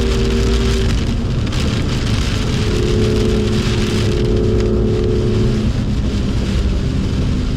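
Heavy rain and tyre spray hissing over a BMW M2 on track, with its turbocharged straight-six engine running under it at a steady note that drops back about a second in and returns a couple of seconds later.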